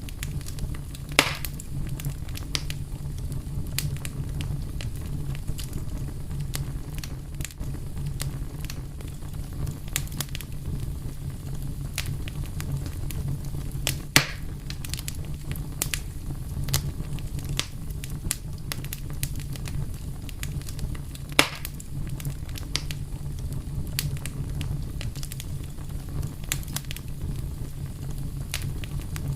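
Wood fire crackling steadily over a low rumble of flames, with frequent small snaps and three louder pops about a second in, midway and about two-thirds through.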